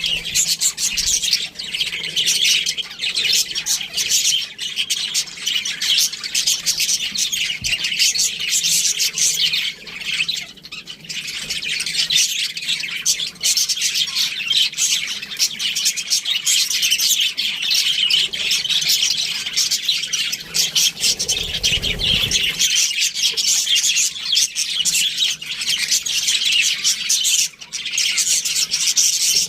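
A flock of budgerigars chattering continuously with dense, overlapping chirps and squawks. A brief low rumble comes about two-thirds of the way through.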